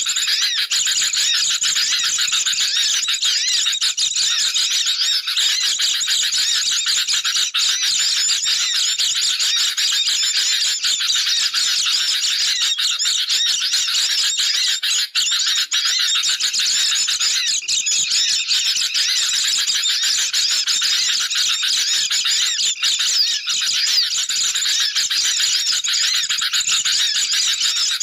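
Bird-lure recording of sooty-headed bulbuls and white-eyes calling noisily together. It is a dense, continuous chatter of overlapping high chirps and trills with no pauses. Such agitated calls are played to draw wild birds in.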